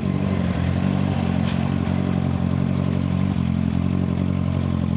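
Suzuki GSX-R 600 inline-four engine running at a steady engine speed while riding, with a steady rush of wind.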